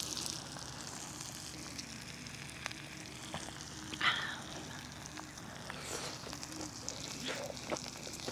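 Meat, kimchi and garlic sizzling in a grill pan over a wood fire, a steady frying hiss with light scattered crackles. About four seconds in comes one brief, louder squeak-like sound.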